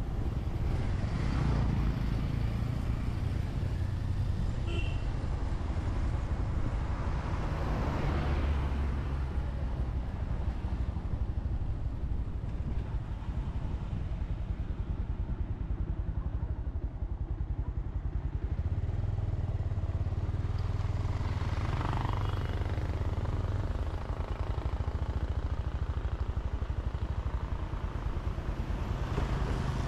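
Motorcycle engine running steadily while riding, its low note rising and falling a few times, with swells of wind and road noise.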